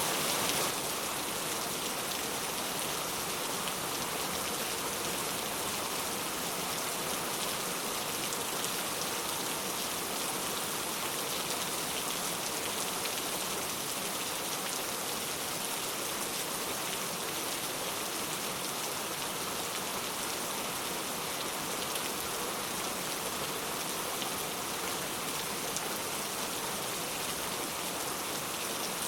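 Steady rainfall: a dense, even hiss of raindrops on a surface, dropping slightly in level just under a second in and then holding steady.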